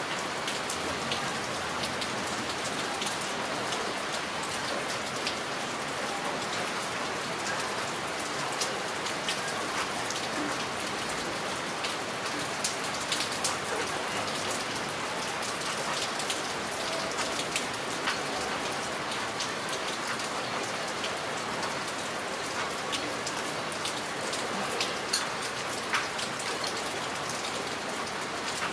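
Heavy rain falling steadily: a dense, even hiss of rain with many scattered sharp ticks of drops striking close by.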